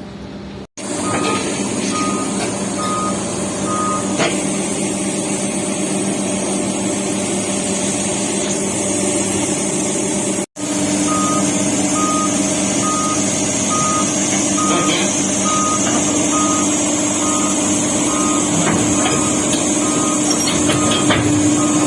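Diesel engine of a Doosan excavator running under load while a travel/backup alarm beeps steadily, about two beeps a second, as the machine is driven onto a lowboy trailer. The beeping pauses for several seconds about four seconds in, then resumes.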